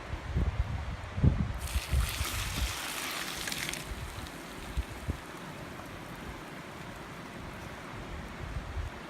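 Wind buffeting the microphone in gusts over the steady rush of a river. A brief hiss about two seconds in.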